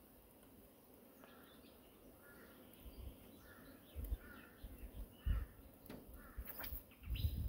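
Birds calling, a series of short calls spread over several seconds starting about a second in, with a few brief low thumps in between.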